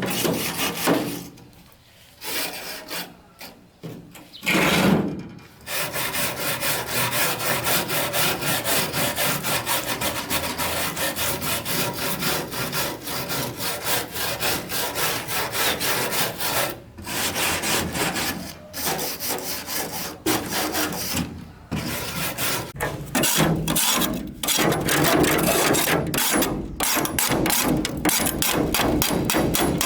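Rapid, steady rasping strokes of a hand tool working a part, stopping briefly a few times.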